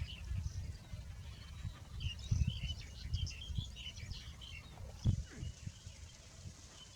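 Small birds chirping in quick high twitters, mostly in the first half, over a low, uneven rumble with a couple of louder low thumps.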